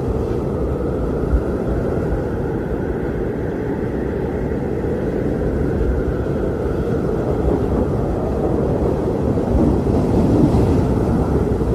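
Strong blizzard wind blowing steadily: a low rumble with a faint howl above it, swelling slightly near the end.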